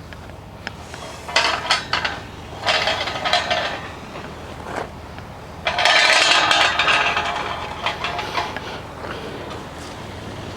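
A metal gate being swung shut: metal clanking and rattling in three bursts, the longest and loudest about six seconds in.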